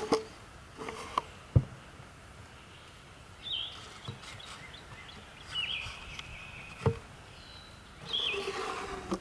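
A bird calls three times, a short falling chirp every two to three seconds, over outdoor background noise. Several sharp clicks and knocks break in, the loudest about one and a half seconds in.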